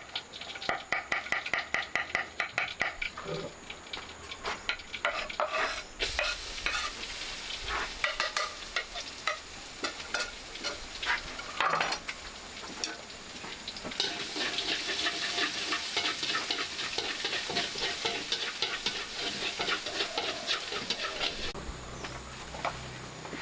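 Food frying and sizzling in a pan while it is stirred, with a utensil tapping and scraping rapidly against the pan in the first several seconds. The sizzling is loudest in the second half.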